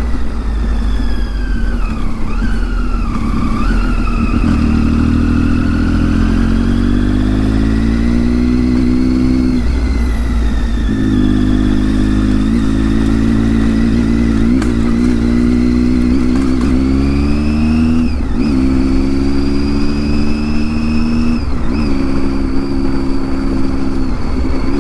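Motorcycle engine under way, pulling up through the gears: the engine note climbs steadily, then drops at gear changes about ten seconds in, near eighteen seconds and again near twenty-two seconds, over a steady low rumble.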